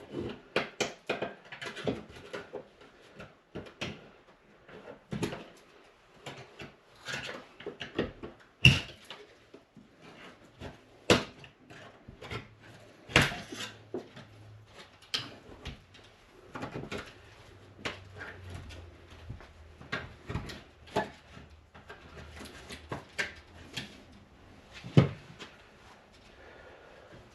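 Hand-tool work on a rusted metal trim strip covering a dryer vent run: irregular clicks, knocks and taps throughout, with a few sharper, louder knocks.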